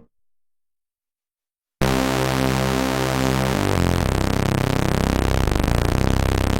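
Silence for nearly two seconds, then a Waldorf Pulse 2 analog bass preset starts: a dense, buzzy sustained tone with a bright hiss on top, which moves to a new pitch about two seconds later and carries a fast pulsing wobble.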